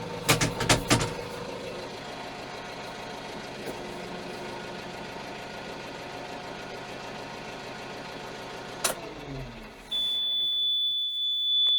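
Steyr 4075 Kompakt tractor's four-cylinder FPT diesel idling steadily, with a quick series of clicks just after the start. About nine seconds in the engine is shut off and runs down. A steady high-pitched warning beep then comes on and keeps sounding.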